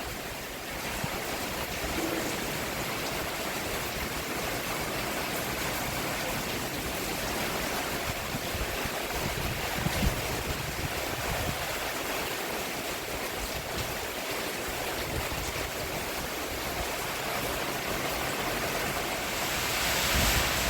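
Steady rain falling on a roof: an even hiss, with a few soft low thumps mixed in, one about halfway through.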